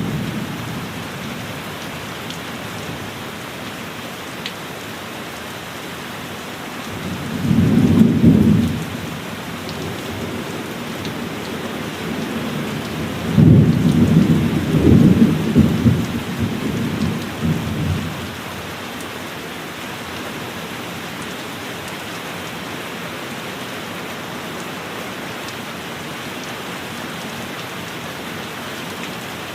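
Heavy rain falling steadily, with thunder rumbling twice: a short roll about a quarter of the way in and a longer, rolling peal about halfway through that dies away over several seconds.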